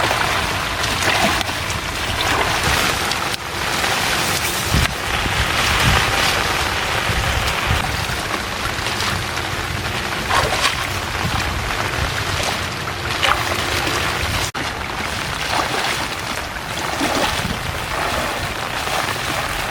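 Heavy rain falling, a steady dense hiss with scattered splashes and drips, briefly cut off about three-quarters of the way through.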